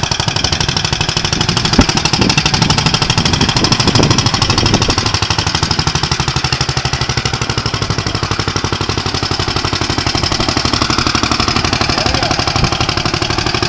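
Homemade tractor's 16 hp side-shaft engine, taken off a grain auger, running loud with a fast, even chugging beat, and a few knocks in the first few seconds.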